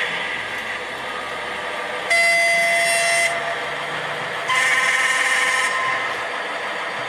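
Sound decoder of a Piko BR 364 model diesel shunter playing through the model's small loudspeaker. The engine runs steadily, and the horn sounds twice, about a second each time, the second blast at a different pitch from the first.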